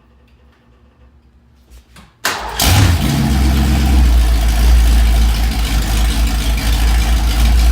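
1985 Ford Mustang engine started about two seconds in, catching almost at once and settling into a steady idle through a newly fitted true dual exhaust with headers and an X-pipe.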